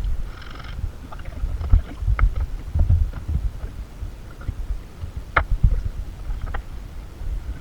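Scattered knocks and clicks over a low rumble, with one sharper knock about five and a half seconds in.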